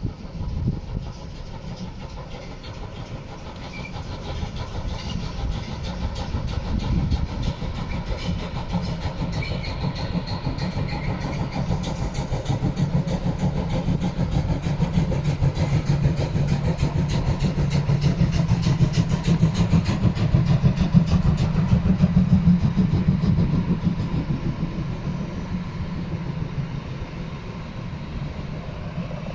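Steam locomotive 50 3516, a DR class 50.35 two-cylinder 2-10-0, passing under steam with its exhaust beats and wheels on the rails. The sound grows steadily louder to a peak about two-thirds of the way through, then fades as it moves away.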